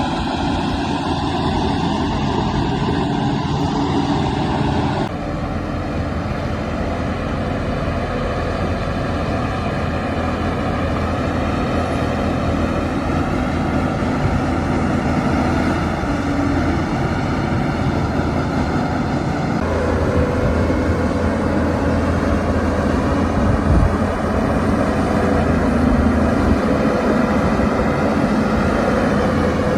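Heavy diesel engine of earthmoving machinery running steadily under work. The engine note changes abruptly about five seconds in and again near twenty seconds, and there is a short knock near twenty-four seconds.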